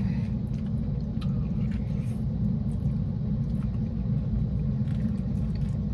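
Steady low rumble of a car idling, heard from inside the cabin, with a few faint light clicks.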